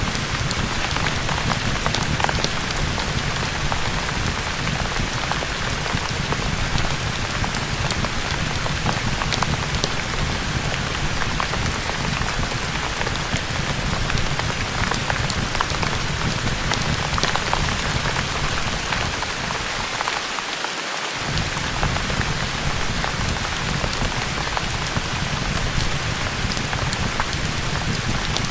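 Steady, continuous rain with a heavy low rumble, mixed with the scattered sharp pops and crackles of a fireplace. The low rumble briefly drops out about twenty seconds in.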